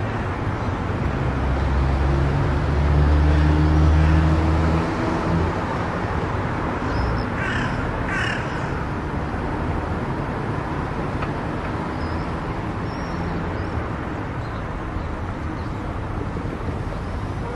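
Car driving on an expressway: steady tyre and wind noise, with a low drone that is strongest in the first five seconds. About halfway through come two short, harsh calls, less than a second apart.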